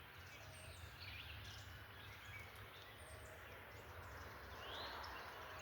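Faint outdoor ambience: a steady low hum with scattered faint bird chirps, one a short rising call about four seconds in.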